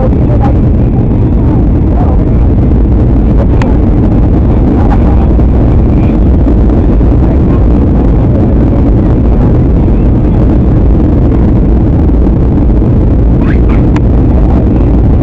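Steady cabin noise inside a jet airliner in flight: the even drone of the engines and airflow, heavy in the low end, with a couple of faint clicks.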